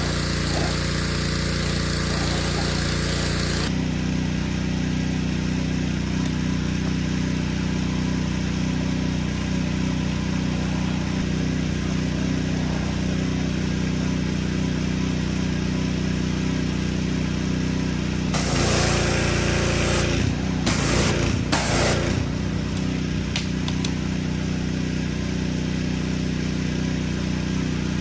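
An engine running steadily at an even idle, with a spray hissing over it at first, stopping about four seconds in, then returning near the end as a few short bursts.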